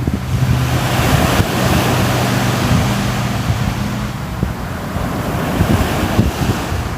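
Ocean surf: a wave breaking and washing in, the rush swelling over the first few seconds and then easing, with wind buffeting the microphone in low rumbles.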